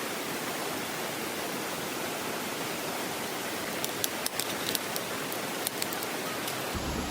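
Steady rush of flowing stream water, with a quick run of sharp clicks or crackles about four seconds in and a couple more shortly after.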